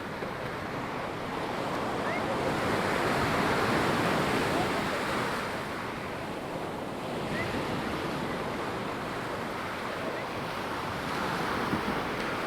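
Ocean surf washing onto a sandy beach. The waves swell loudest a few seconds in and again near the end, easing back in between, with some wind.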